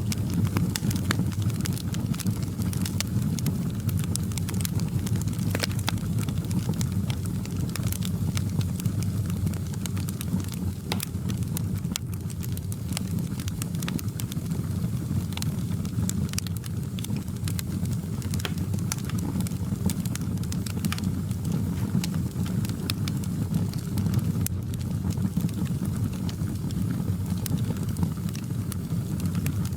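Wood fire crackling in a fireplace: a steady low rumble of flames with frequent small sharp pops and snaps scattered irregularly throughout.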